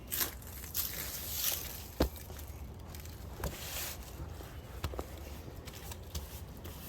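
A paintbrush swishing over wood in a few strokes, with several light clicks and knocks in between.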